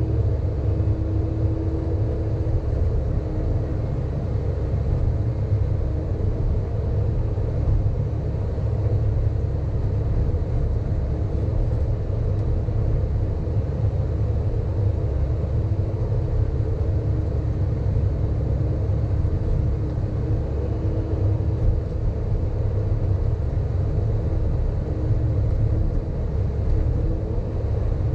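Sany hydraulic excavator's diesel engine running steadily as the machine works, a constant low rumble with a faint wavering whine above it.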